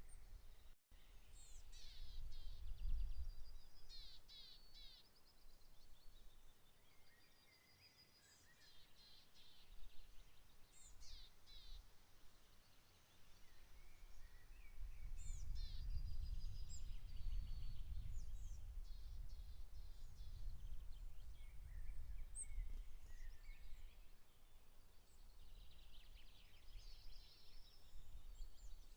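Several wild songbirds singing and calling in overlapping phrases and trills, over a low outdoor rumble that swells near the start and again for several seconds in the middle.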